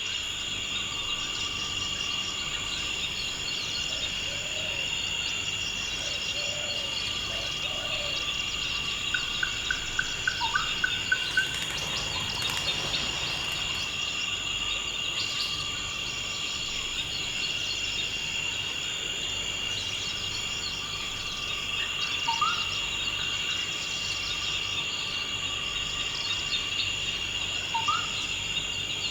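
Steady chorus of trilling insects, crickets or similar, running without a break. Birds call over it: a quick run of short notes about a third of the way in, and two short rising calls near the end.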